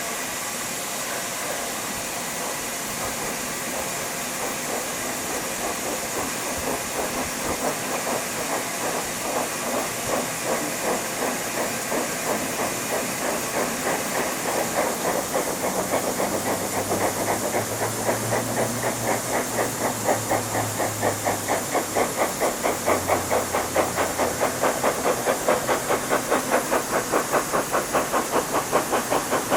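Steam locomotive hissing steam, then its exhaust beats set in as a regular chuff that grows louder and quicker over the second half.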